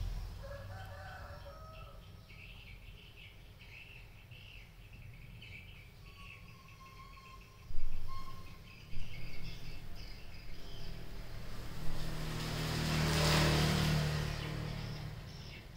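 Small birds chirping repeatedly in the background. A loud sudden knock comes about halfway through, then a few sharper knocks, and near the end a rushing swell with a low hum, like a vehicle passing.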